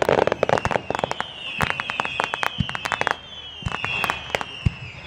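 Fireworks display: a dense crackle at the start, then many sharp bangs and cracks, with several high whistles that slide down in pitch and a few deep thuds in between.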